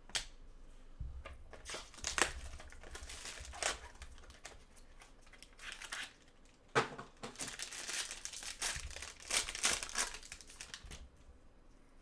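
Trading card pack wrapper being torn open and crinkled by hand, in two bouts of rustling with a few soft thumps.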